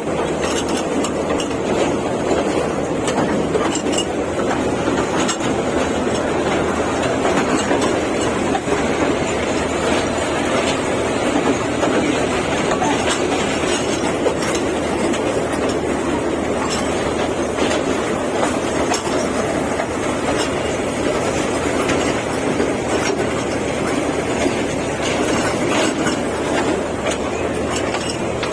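A park toy train running steadily along its track: a continuous rumble with faint clicks and rattles from the wheels on the rails.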